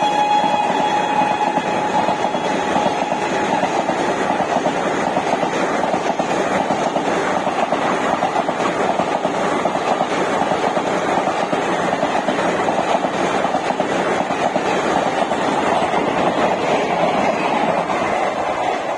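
Passenger coaches of an express train rushing past close by: a loud, steady rush of wheels and rapid clatter over the rail joints. The tail of the locomotive's horn fades out in the first few seconds.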